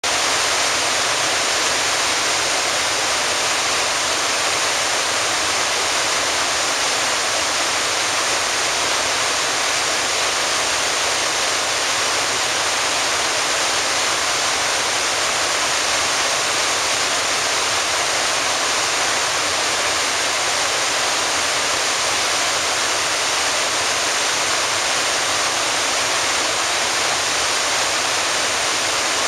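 Waterfall crashing, a steady, unbroken rush of falling water.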